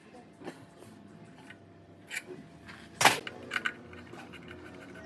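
A few separate sharp metallic clicks and knocks, as of small metal parts being handled and set down, the loudest about three seconds in and followed by a couple of lighter taps.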